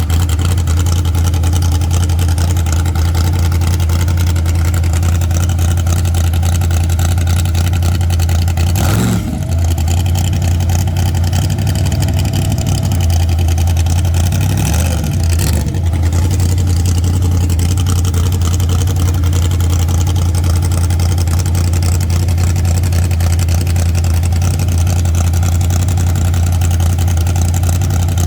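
Car engine idling loudly and steadily, revved up and back down briefly twice, about nine and fifteen seconds in.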